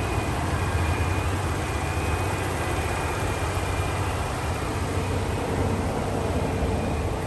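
Ford F-150 Raptor's twin-turbo 3.5-litre EcoBoost V6, fitted with an aftermarket cold air intake, idling steadily with a low, even drone.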